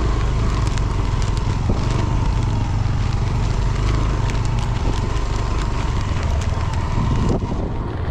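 Motorcycle riding: a steady engine rumble under wind rushing over the microphone, with many small crackling ticks. The hiss thins out about seven seconds in.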